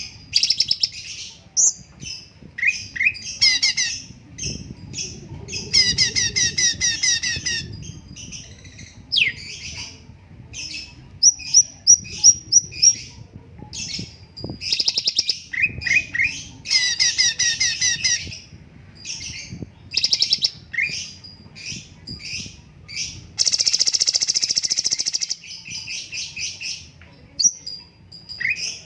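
Cucak cungkok songbird singing a fast, varied song of sharp whistles, chattering trills and rapid runs of repeated notes, with a dense, buzzy rattle a few seconds before the end.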